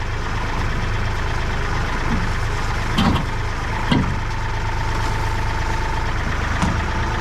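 Tractor engine running steadily at idle, with two sharp knocks about three and four seconds in and a thin steady whine lasting about two seconds after the second.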